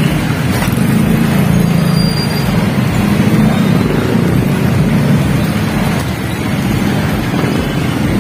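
Motorcycle engine running, a steady loud rumble picked up close on the rider's phone microphone.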